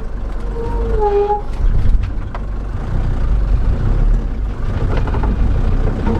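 Mercedes T1 van's engine running under load while the van is stuck in snow, its driven wheel spinning instead of pulling it away. A short wavering tone sounds about a second in.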